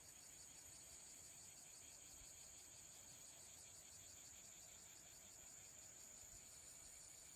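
Faint, steady, high-pitched insect trill, unbroken and with a fast pulsing texture.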